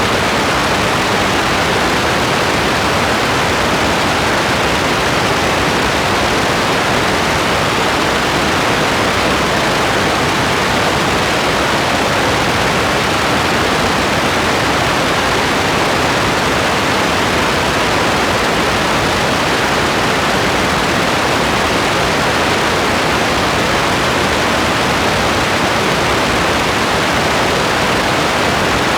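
Steady, even hiss of heavy rain, with no single drops, thunder or other events standing out.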